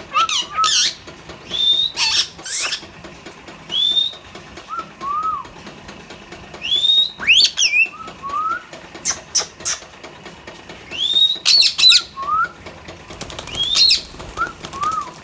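Indian ringneck parrots calling: repeated rising whistles that level off high, short arched lower notes, and sharp shrill screeches, coming every second or two.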